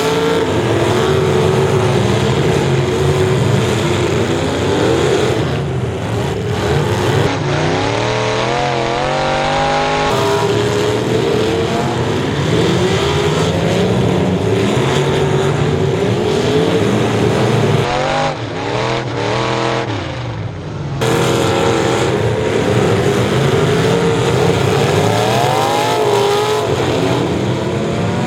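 Figure-8 race car engines revving up and falling off again and again as the cars race. Twice the sound briefly turns duller.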